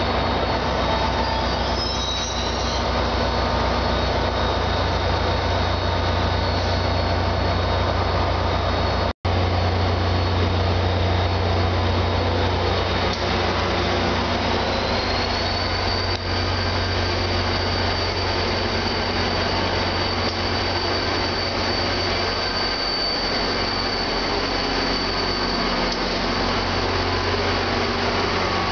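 A passenger train of multilevel coaches moves through the terminal tracks, with wheels squealing on the curve. After a cut about 9 s in, an NJ Transit diesel locomotive stands idling with a steady low drone, and a high-pitched whine rises slightly and then holds about five seconds later.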